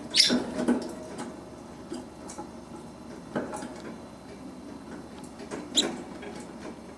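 Budgerigar chicks squeaking: two short, loud, high squeaks, one just after the start and one near the end, with fainter squeaks and clicks between.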